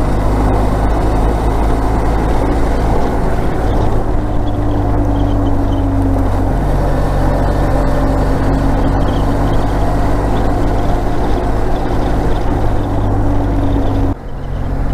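Motorcycle engine running steadily under way, with wind noise over the microphone. The engine note shifts about six and a half seconds in, and the level dips briefly near the end.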